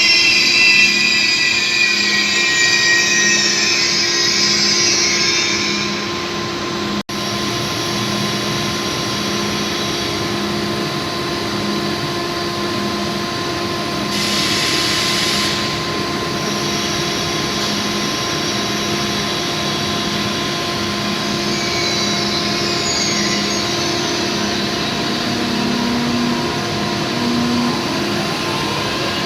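Train at a station: a high, wavering squeal of wheels on the rails over a steady electric hum for the first several seconds. After a cut, the steady hum continues with a pulsing low tone, a brief hiss about halfway through, and a faint squeal again later on.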